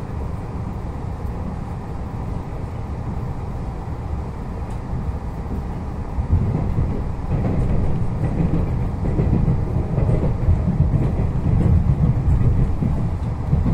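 Running noise of a Taiwan Railway Puyuma Express tilting electric train, heard inside the passenger car: a steady deep rumble that grows louder about six seconds in.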